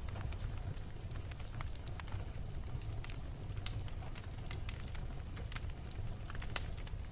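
Wood fire burning in a fireplace: a steady low rumble of the flames, with irregular sharp crackles and pops from the burning logs, a few of them louder.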